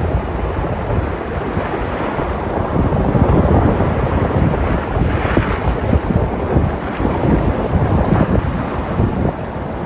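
Sea surf washing and breaking on the shore, with a wave surging louder about halfway through, and wind buffeting the microphone as a low rumble.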